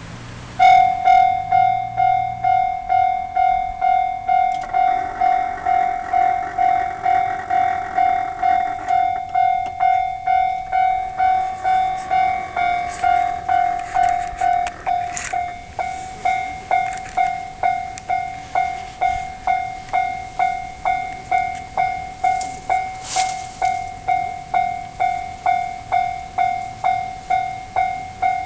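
Level-crossing warning bell starting about a second in, ringing one tone over and over in an even rhythm of about two strikes a second. Under it, an electric train clearing rust from the rails passes by, its running noise swelling and then fading, with a run of wheel clicks over rail joints.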